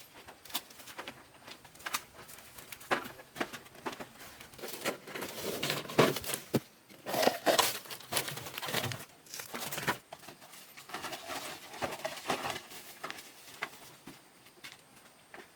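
Irregular crinkling and rustling with many sharp clicks and light knocks, as of objects being handled, busiest in the middle.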